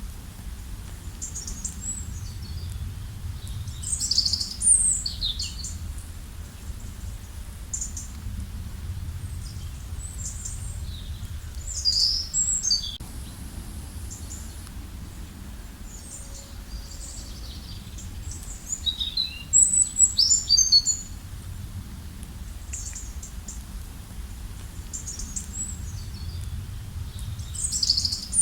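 Songbirds chirping and singing in a forest in short, high phrases every few seconds, with the loudest bursts of twittering near the middle, over a steady low rumble.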